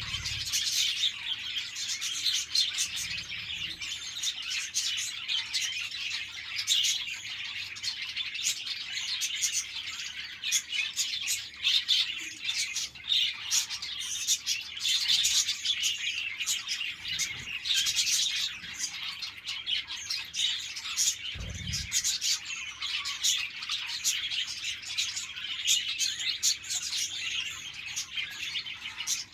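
A flock of budgerigars chattering and chirping continuously, many quick overlapping high chirps and warbles.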